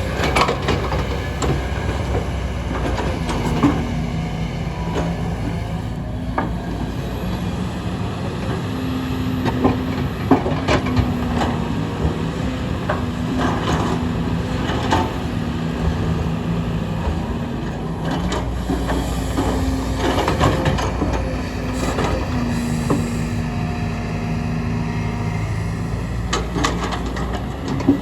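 Kobelco hydraulic excavators' diesel engines running under load, their pitch stepping up and down as the machines work, with frequent sharp knocks and clatter of earth and rock.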